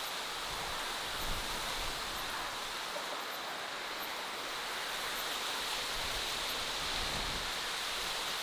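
Steady outdoor natural ambience: an even rushing hiss with no pauses, with a few faint high ticks scattered through it.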